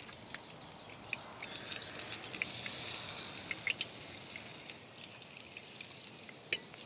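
Pike fish cakes frying in rapeseed oil in a pan: a steady sizzle with scattered small pops and crackles, swelling a little about two to three seconds in.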